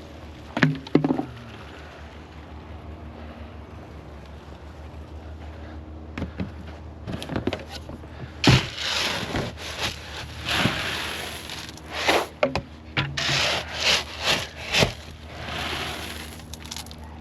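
Two knocks, then from about six seconds in a run of irregular scraping and rubbing noises of varying length.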